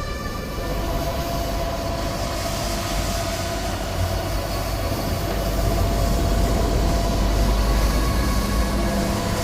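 A continuous, loud, deep rumbling drone with steady metallic tones held above it, growing louder past the middle. This is the kind of eerie groaning noise passed around as a mysterious 'strange sound' from the sky, and it sounds much like a train.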